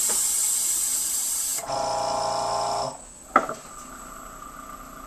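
Power Plate pro6 vibration platform running after being started: a loud hissing whir, then a buzzing hum for about a second, which cuts off about three seconds in. A single click follows, then a faint steady whine.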